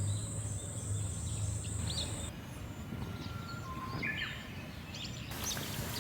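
Small birds chirping in short, scattered calls over steady outdoor ambience. A high, steady hiss-like tone stops abruptly about two seconds in.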